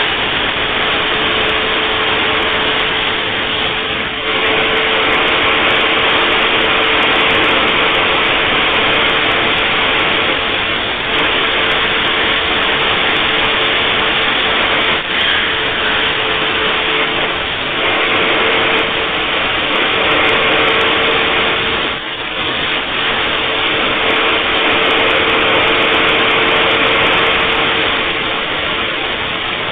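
Vacuum cleaner running steadily at its lowest power setting, a loud rushing noise with a steady whine, driving a Lego vacuum engine by suction so that it spins very fast. The level dips briefly a few times.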